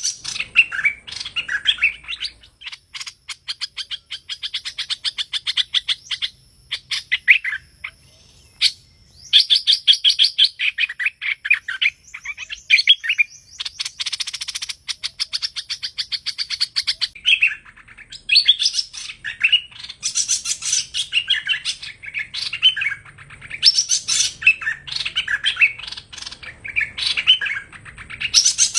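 Birdsong of the hoành hoạch, a Vietnamese songbird, used as a trapping lure call. It gives long, fast trills of repeated chirps that pause briefly twice, then pick up again in shorter, varied phrases.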